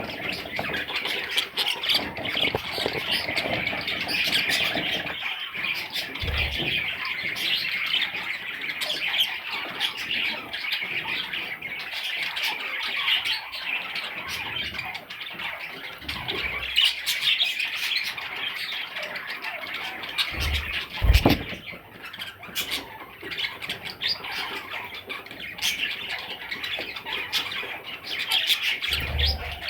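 Budgerigars chattering and squawking without pause in a dense, warbling flock chatter. A few low thumps break in, the loudest about two-thirds of the way through.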